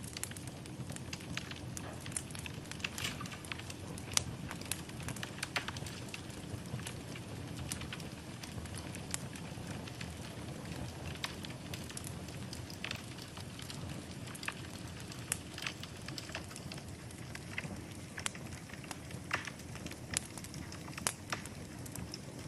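Wood fire burning in a fireplace: a steady low rush of flames with irregular sharp crackles and pops from the logs throughout.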